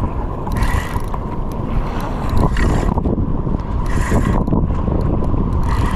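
Wind buffeting the microphone as a loud steady rumble, with water washing against a kayak in surges about every second and a half.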